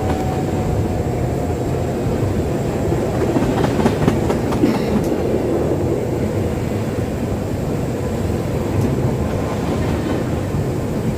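Bangkok Yellow Line monorail train running, a steady rumble with a few sharp clicks a little under halfway through.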